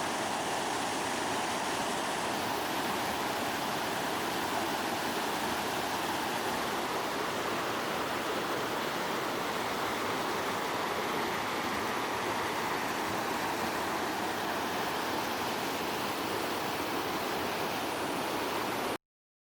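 Mountain stream's water rushing steadily, cutting off suddenly near the end.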